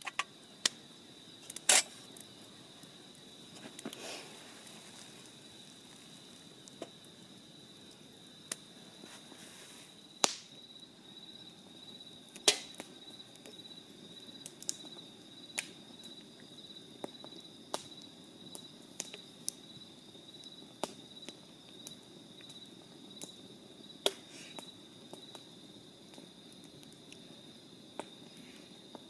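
Crickets chirping in a steady high trill, with irregular sharp pops and cracks from a wood campfire, a few of them much louder.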